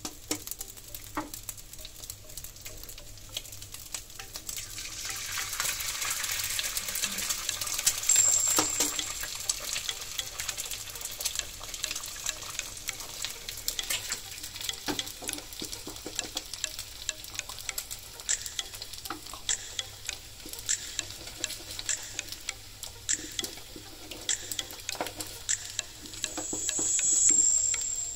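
Garlic fried rice and raw eggs sizzling in a hot stone-coated wok while a wooden spatula stirs and scrapes, with frequent light clicks of the spatula against the pan. The sizzle swells louder a few seconds in and again near the end.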